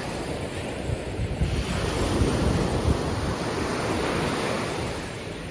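Ocean surf washing ashore, a wave swelling about two seconds in and easing off near the end, with wind buffeting the microphone.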